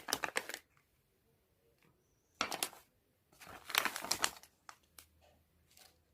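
Packaging crinkling and rustling as art supplies are handled and unpacked, in three short spells with a few small clicks between.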